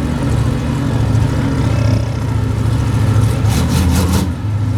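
A large vehicle engine running steadily with a deep, even drone. About three and a half seconds in comes a quick run of about five sharp cracks or rattles.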